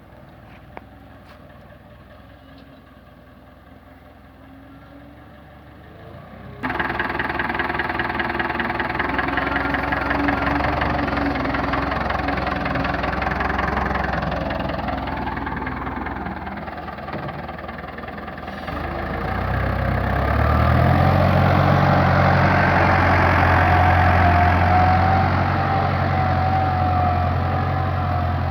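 Fendt tractor's diesel engine running. After a few quieter seconds it comes in loud all at once, and about two-thirds of the way through a deep, steady engine hum rises and becomes the loudest part.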